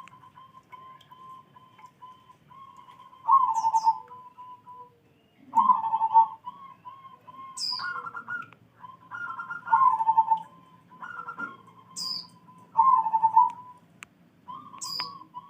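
Zebra dove (perkutut) singing: rolling, repeated cooing phrases come every few seconds, each a loud coo followed by a run of softer even notes. A few short, high-pitched chirps cut in between the phrases.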